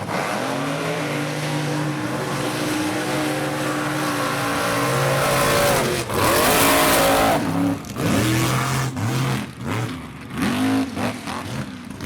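Mega truck engine running at a steady pitch, then a loud rushing burst about six seconds in, followed by a series of short, sharp revs that rise and fall.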